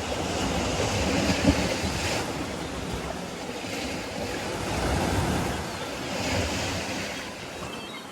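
Sea waves breaking and washing up the shore, swelling and ebbing every few seconds, with wind on the microphone.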